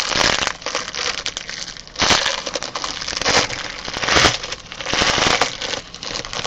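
Trading-card pack wrapper being torn open and crinkled, a dense crackling with louder bursts every second or so.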